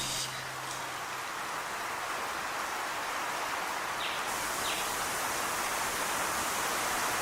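Steady rain falling, an even hiss that slowly grows louder, with two short high chirps about four seconds in.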